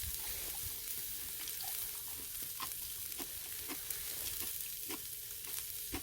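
Pork neck sizzling over a charcoal brazier: a steady hiss with scattered small pops and crackles.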